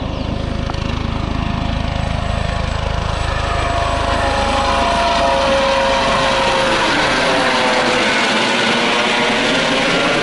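Eurocopter AS365 N3+ Dauphin helicopter flying by: a rapid low rotor pulsing with a whining turbine and fenestron tone on top. It grows louder over the first few seconds, and the whine slides down in pitch around the middle as it passes.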